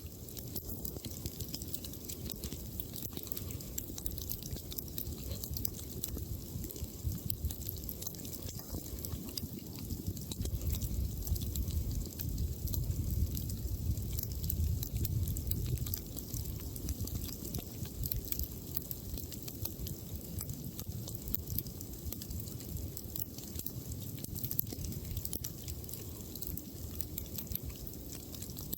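Campfire of burning wood crackling with many small irregular pops, over a low rumble that grows louder in the middle.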